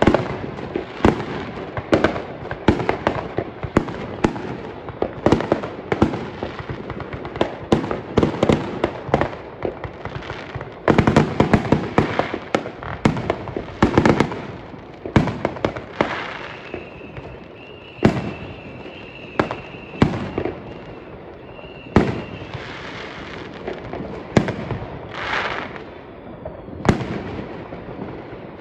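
Fireworks going off: many sharp bangs and crackles one after another, with a rapid volley about eleven seconds in. A thin, steady high whistle runs for several seconds in the middle.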